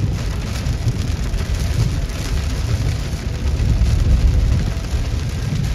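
Heavy rain pouring steadily in a severe thunderstorm, with a deep rumble underneath that swells slightly about four seconds in.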